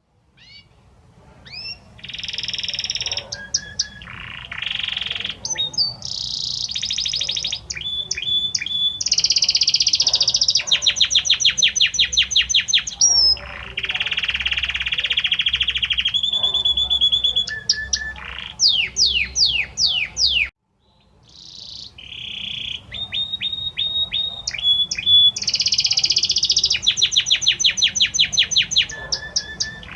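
Male Belgian canary singing his courtship song to a hen: a long, varied run of fast trills, rapidly repeated notes and quick upward whistles. He breaks off briefly about two-thirds through, then starts again.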